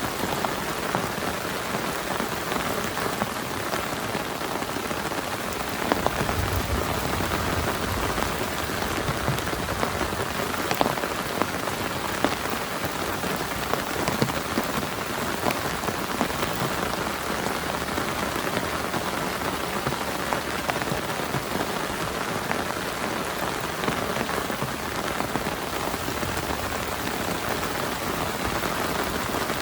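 Heavy rain falling steadily on a tarp shelter, with scattered sharp ticks of single drops. A brief low rumble comes about six seconds in.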